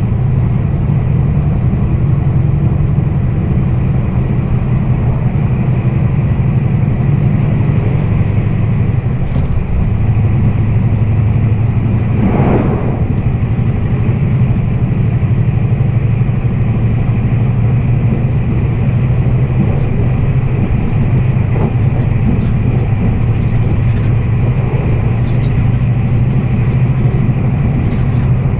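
Meitetsu 1200 series limited express train running at speed, heard from inside the car: a steady low rumble of wheels on rails, with a brief swelling noise about twelve seconds in.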